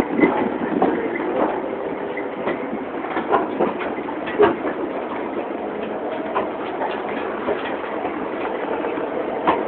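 Train rolling slowly on the rails: a steady rumble of wheels on track with irregular clicks and knocks.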